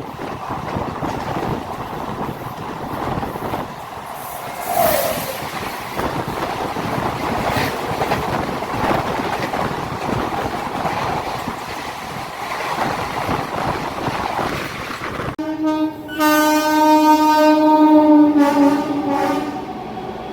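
An Indian Railways train running past, its wheels clattering over the rail joints. Near the end the sound changes abruptly and a locomotive horn blows loudly for about three seconds, dropping slightly in pitch as it fades.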